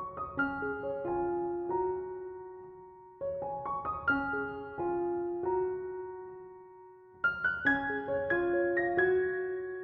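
Gentle background piano music, note phrases ringing and fading, with a short pause and a fuller passage starting a little after seven seconds.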